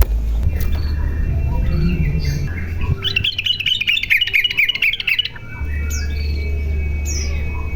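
Yellow-vented bulbul singing: a rapid burst of bubbly, chattering notes lasting about two seconds in the middle, with scattered short chirps around it. A steady low rumble runs underneath, dropping away during the burst.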